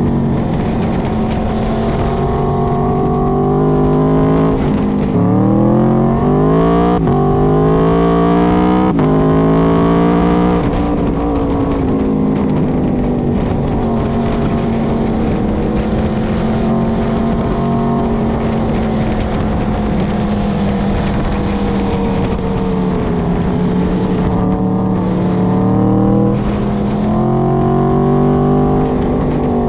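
Aprilia RSV4 RF's V4 engine under way. It revs up through three quick upshifts about five to ten seconds in, each a sudden drop in pitch followed by a climb, then holds a fairly steady pitch while cruising, and picks up again near the end.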